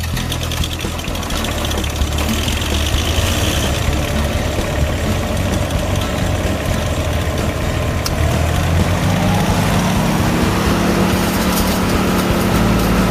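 GreenMech QuadTrak 160 wood chipper's engine running, its speed rising about nine seconds in and then holding steady at a higher pitch.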